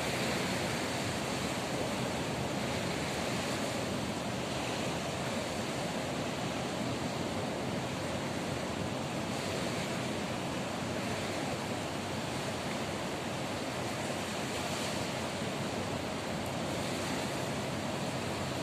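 Ocean surf washing onto the shore in a steady rushing wash, with some wind on the microphone.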